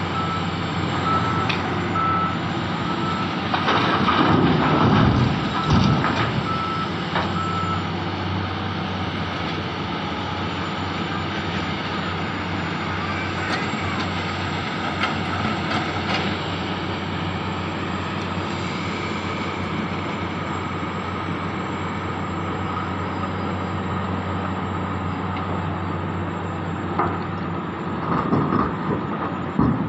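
Heavy diesel mining machinery, excavator and articulated dump trucks, running steadily, with a reversing alarm beeping at an even pace for the first several seconds and then stopping. Louder surges of engine noise come about four to six seconds in and again near the end.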